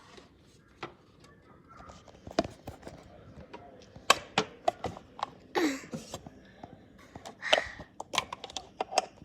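Irregular clicks and taps of small plastic toys and dollhouse pieces being handled and moved, with a couple of brief swishes in the middle.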